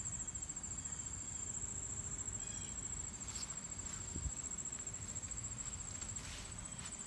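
A steady, high-pitched chorus of late-summer insects. There is a low background rustle and a soft bump about four seconds in.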